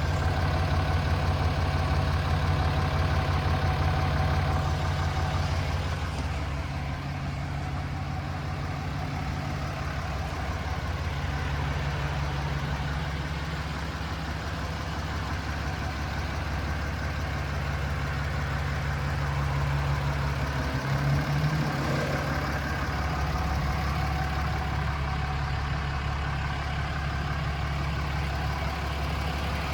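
2016 Ram 2500's 6.7-litre Cummins turbo-diesel inline-six idling steadily.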